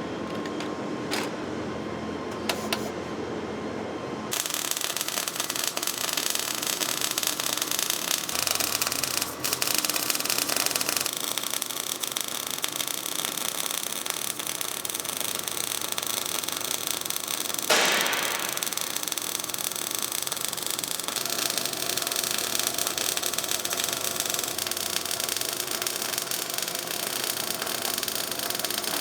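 Semi-automatic (MIG) arc welding on steel: a few sharp clicks, then a dense, steady hiss of the welding arc from about four seconds in, with a single sharp crack near the end of the second third.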